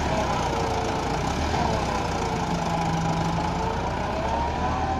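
Tractor diesel engine running steadily, its pitch wavering slightly up and down.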